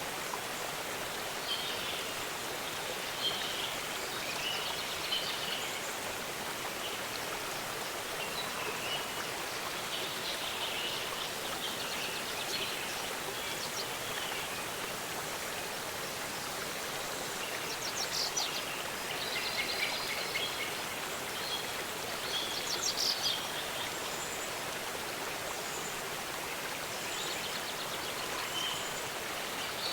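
Steady rush of a waterfall with small birds chirping and trilling on and off over it, the calls busiest about two-thirds of the way through.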